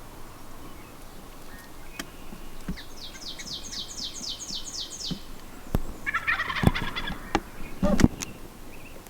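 A wild turkey gobbles once, about six seconds in. Before it, a small bird sings a run of about ten quick, high, falling notes. Several sharp knocks come in the second half, the loudest near the end.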